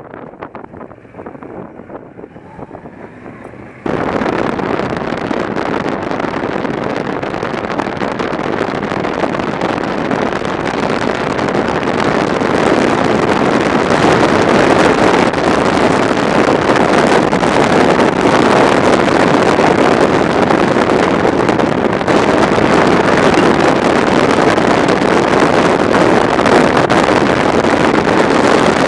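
Steady wind rush on a motorcycle-mounted camera's microphone while riding, with the motorbike's running noise mixed in. It starts abruptly about four seconds in after a quieter stretch, builds over the next several seconds and then holds loud and even.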